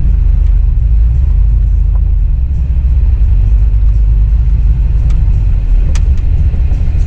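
Low, steady rumble of a truck engine running, with a couple of faint clicks near the end.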